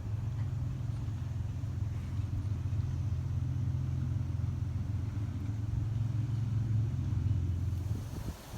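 A steady low rumble that stops about eight seconds in.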